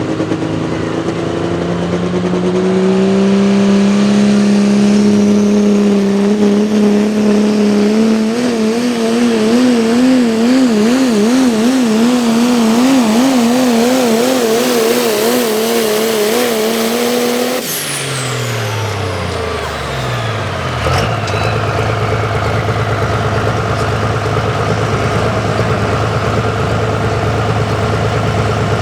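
Turbocharged diesel 4x4 pulling truck at full throttle, the engine pitch climbing over the first few seconds, then held high and wavering. About 18 seconds in the throttle comes off: the revs fall away with a falling turbo whistle, and the engine settles to a steady idle.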